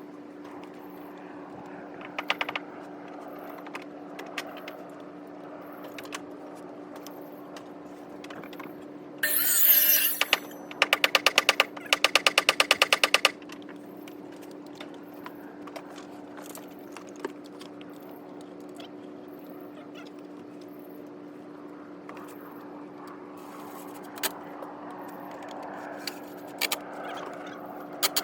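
Construction work on a deck: a short loud rushing burst about nine seconds in, then a rapid run of sharp knocks, about five a second for some three seconds, over a steady hum, with scattered single clicks and taps.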